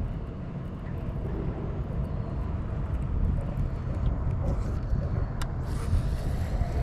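Steady low rumble of road traffic, with a faint sharp click about five and a half seconds in.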